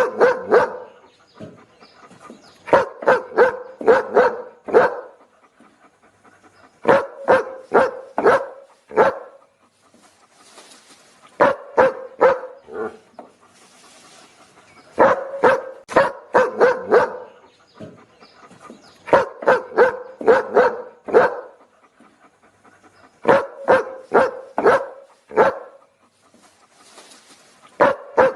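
A dog barking in quick bursts of five or six barks, each burst about two seconds long and repeating about every four seconds, with short pauses between.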